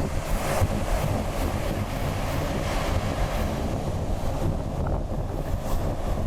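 Wind buffeting the microphone: a loud, rushing noise with irregular low gusts.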